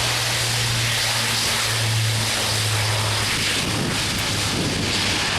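Airbus A400M Atlas military transport's four turboprop engines at takeoff power: a loud, steady roar with a low droning hum under it.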